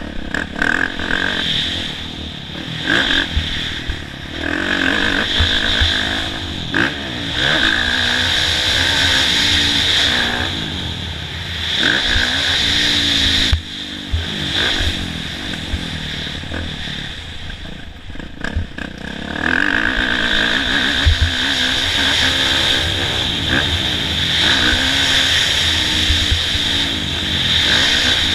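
Kawasaki KX450F four-stroke single-cylinder motocross bike being ridden hard, the engine revving up and dropping back again and again with throttle and gear changes. Scattered thumps and clatter come from bumps and landings.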